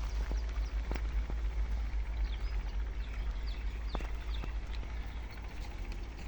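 Birds chirping in short, scattered calls over a steady low rumble, with a few sharp clicks.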